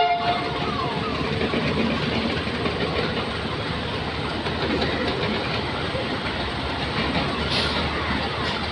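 Electric multiple-unit local train running toward the platform: a steady rumble of wheels on the rails with some clatter. A brief loud pitched blip right at the start.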